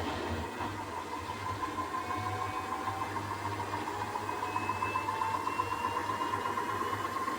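Hisense WF1Q8041BW front-loading washing machine spinning up in its service-mode spin test toward about 1100 RPM: a low hum with a motor whine that climbs slowly in pitch as the drum speeds up.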